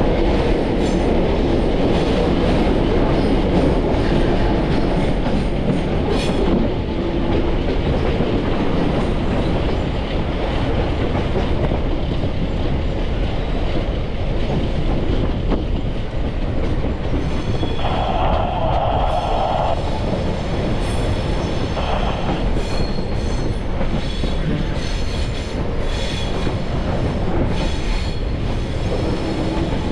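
Heritage railway carriage running along the track, a steady rumble of wheels on rails. About two-thirds of the way through, a high squealing tone lasts about two seconds, and later there are scattered clicks over the rails.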